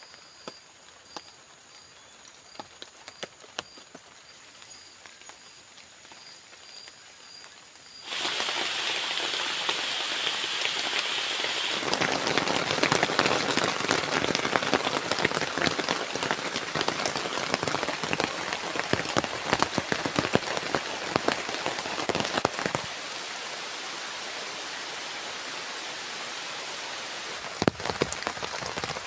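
Rain. At first it is scattered drops ticking, with a faint high chirp repeating about twice a second. About eight seconds in, heavy rain starts suddenly and keeps pelting down as a dense hiss of drops.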